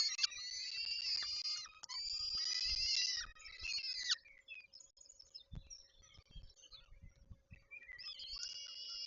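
Peregrine falcons calling at the nest: three long calls in close succession, then a pause of a few seconds broken by a few low thumps, then calling again near the end. A faint steady hum runs underneath.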